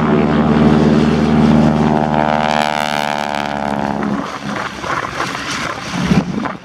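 Boeing PT-17 Stearman's Pratt & Whitney R-985 radial engine and propeller running loud and steady, then fading away about four seconds in, leaving rougher wind-like noise.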